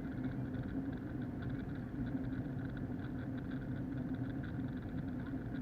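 Steady cabin drone of an Airbus A321 in flight: engine and airflow noise, with a faint fast rattle from the action camera shaking in its case.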